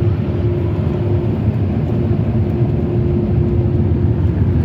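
Automatic car wash air dryer blowers running, a loud steady roar heard from inside the car, with a faint steady hum that fades in and out.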